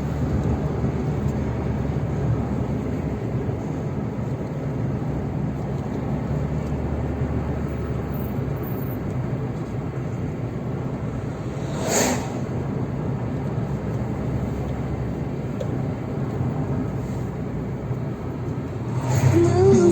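Car driving along a road: steady engine and road noise, with one short sharp knock about twelve seconds in. Music comes in near the end.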